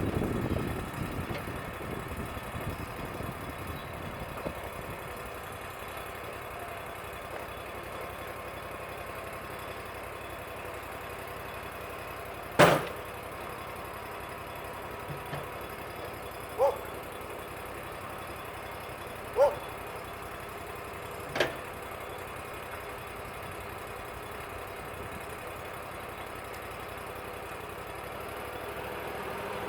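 Wood-Mizer LT35 sawmill engine running steadily at idle, with a heavier rumble fading out in the first couple of seconds. Four sharp knocks cut through it: a loud one about twelve seconds in, then three more over the next nine seconds, two of them with a short metallic ring.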